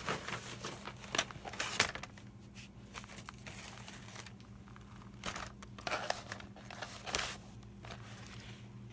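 Rummaging through papers and craft supplies on a table: irregular rustling and crinkling, with a few sharper knocks and clicks, while searching for a bookbinding awl.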